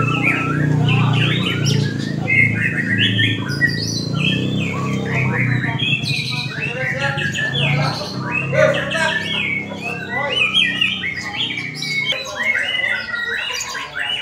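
White-rumped shama (murai batu) singing a long, varied run of rapid whistled phrases and chirps. A low steady hum underlies it and stops about twelve seconds in.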